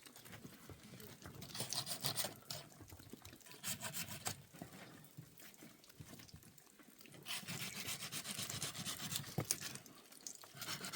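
Rough rubbing in several bouts of quick strokes, each lasting one to two seconds, with a longer bout in the second half.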